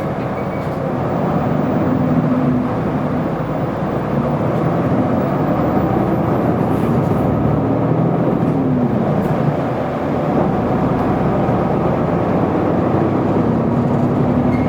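Isuzu Erga city bus's diesel engine and drivetrain running under way, heard from inside the passenger cabin. The engine note falls about eight seconds in, dips briefly, then climbs again as the bus pulls on.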